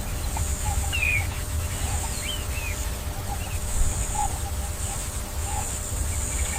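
Scattered short bird calls over a steady high-pitched hiss and a low rumble, an outdoor nature ambience.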